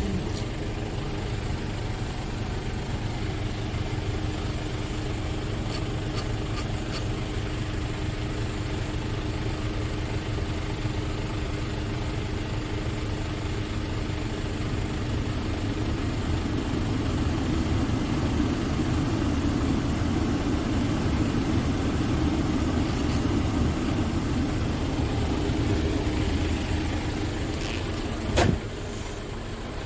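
Scania S tractor unit's diesel engine running steadily, growing louder from about halfway through, with a short knock near the end.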